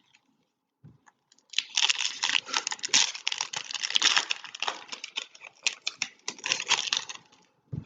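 Foil trading-card pack wrapper being torn open and crinkled, a dense crackle that starts about a second and a half in and lasts about six seconds. A soft low knock comes just before it and another at the very end.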